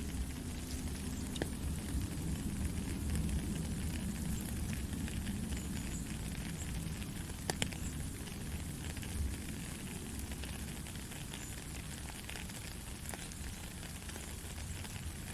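Steady gentle rain, a dense patter of drops with a few sharper drop ticks.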